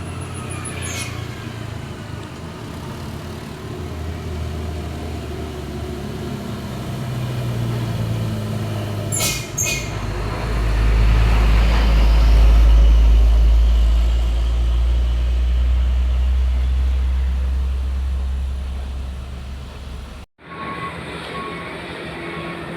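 Diesel engine of a heavily loaded truck labouring slowly uphill in a low gear, rising to a loud deep drone as it draws close about ten seconds in and easing off again. A couple of brief sharp hisses sound just before the swell. A cut near the end leaves a quieter engine.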